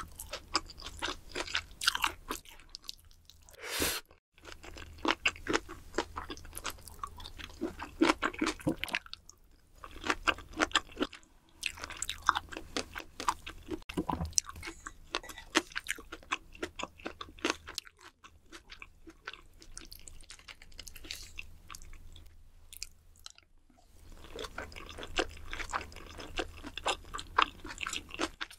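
Close-miked eating: a person chewing and crunching mouthfuls of Korean bunsik food, in runs of quick crackly bites broken by a few short pauses.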